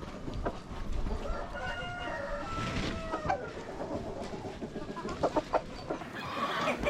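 A rooster crowing once, a drawn-out call of about two seconds starting about one and a half seconds in and falling in pitch at its end, among chickens clucking. A few sharp clicks follow near the end.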